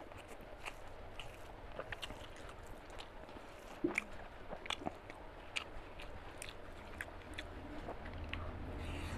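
Close-up chewing of a mouthful of rice and mutton boti curry: wet, irregular mouth clicks and smacks, with a sharper click about four seconds in.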